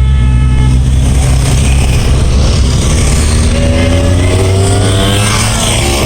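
Motorcycles passing in a group, their engines rumbling steadily. A short horn toot sounds right at the start, and about three seconds in one bike revs up, its pitch climbing and then dropping as it goes by.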